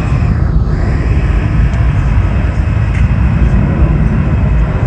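Jet airliner engines running loud: a steady, deep rumble of engine noise from a passing aircraft.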